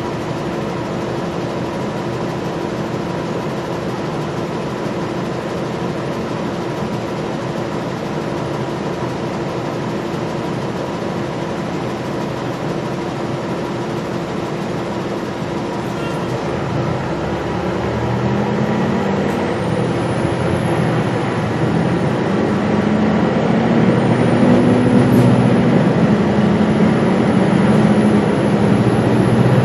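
Gillig Low Floor transit bus heard from inside, running steadily at first. About halfway through, the engine note climbs and swells and a high whine rises and wavers as the bus accelerates, growing louder.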